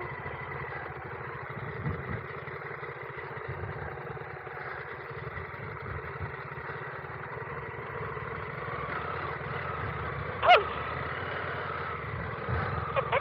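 Adventure motorcycle engine running steadily at low speed, with wind and road noise. About ten seconds in there is one brief, loud, pitched sound.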